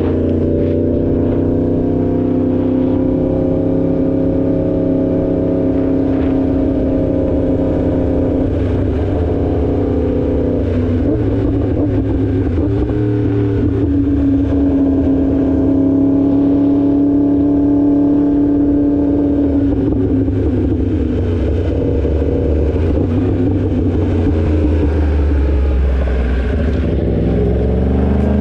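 2016 Yamaha R1's crossplane inline-four engine running at a steady riding speed, its pitch drifting a little, then rising near the end as the bike accelerates.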